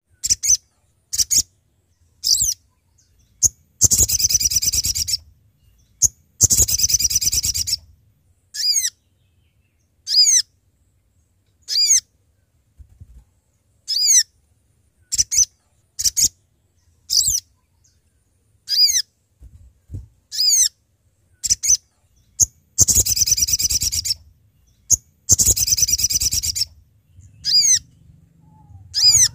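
Spiderhunter (sogok ontong) calling: sharp, quickly bending high call notes repeated every second or so, broken by four longer rattling trills.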